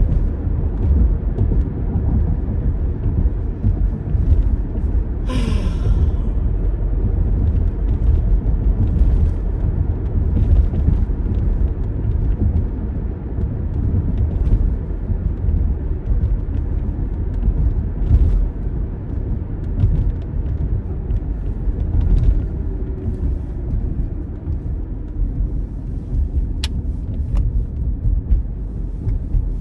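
Steady low rumble of a car's engine and road noise heard inside the moving car's cabin, with a brief hissing rush about five seconds in.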